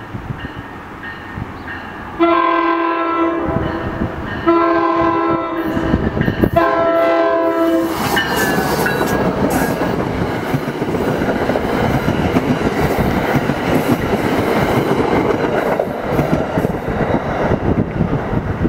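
NJ Transit commuter train sounding its horn in three blasts of a bit under two seconds each as it approaches. Then the Comet V coaches roll past, wheels rumbling and clattering on the rails.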